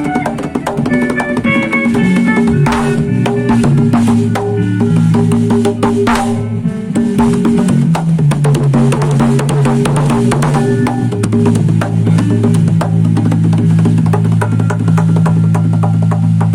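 A band playing, led by a drum kit hitting steadily over long held low notes.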